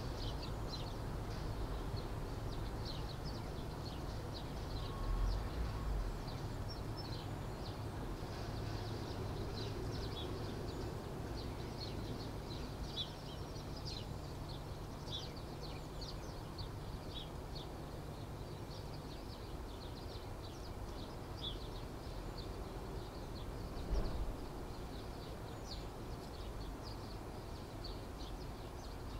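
Many small birds chirping in quick, short notes over a steady low background rumble, with a brief low thump about five seconds in and another near the end.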